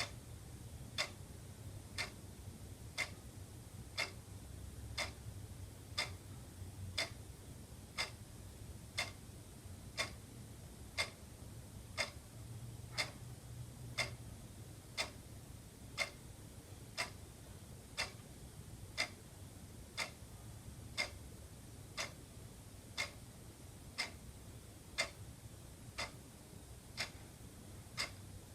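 Wall clock ticking steadily, a sharp tick about once a second, over a faint low hum.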